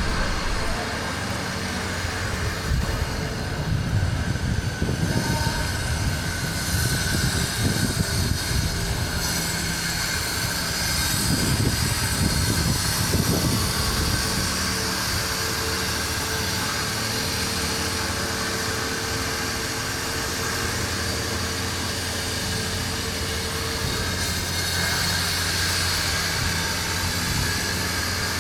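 Downtown street traffic: vehicles pass with a low rumble, over a steady low engine drone.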